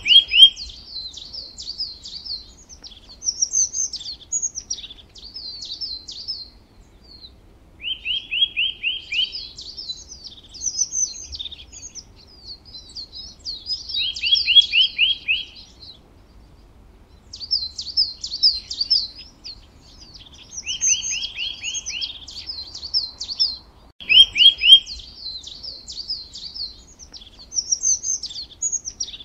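Songbird singing: repeated phrases of high chattering notes, each with a fast run of lower notes, recurring every few seconds.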